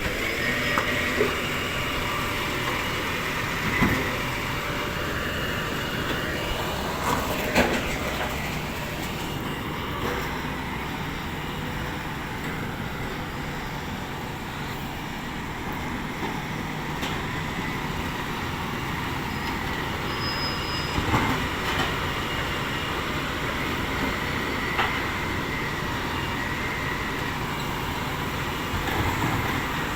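Rubbish truck running steadily, with a faint high whine over the engine and a few sharp knocks spread through it.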